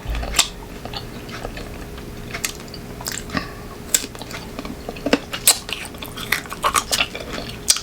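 Crisp crunching and chewing of raw green mango slices eaten close to the microphone, a scatter of sharp crunches coming thicker in the second half.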